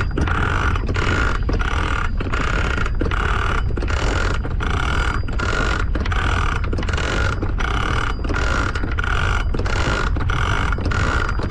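Antique manual double-action anchor winch being cranked, its ratchet and gears clicking through steady strokes about two a second as the anchor chain is hauled in.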